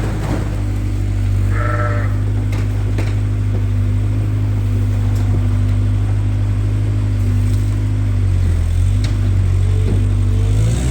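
A sheep bleats once, briefly, about two seconds in, over the steady drone of a skid steer's engine running close by. The engine note shifts slightly about eight seconds in.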